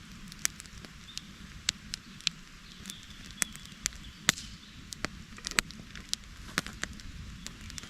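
Campfire of wet wood crackling, with irregular sharp pops, several a second, some much louder than the rest.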